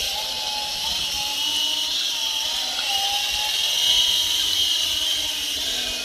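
Small battery-powered RC helicopter's electric motors and rotor blades whirring in flight, the pitch wavering up and down as the throttle is worked.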